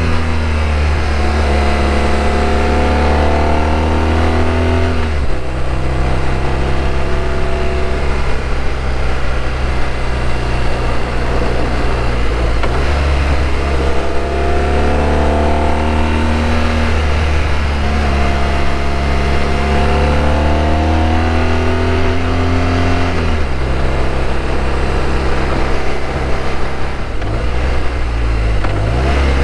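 BMW R1200RT's flat-twin boxer engine running under way, heard from the bike, its note climbing with speed and then dropping back sharply about three times, as at gear changes. Wind rush runs underneath.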